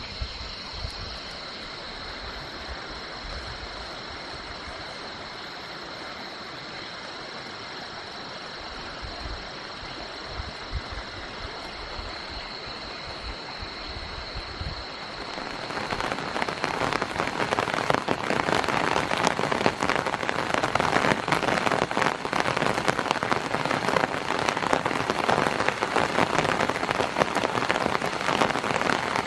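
Crickets trilling in one steady high tone at night, then about halfway through heavy rain sets in, loud dense rain hitting the tarp overhead with countless fine drop taps that drown out the insects.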